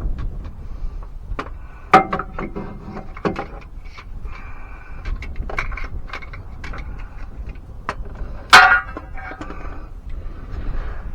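Metal clanking and knocking as a transfer case actuator is worked against the transfer case, with two loud clanks that ring briefly, about two seconds in and near the end, among lighter clicks and taps.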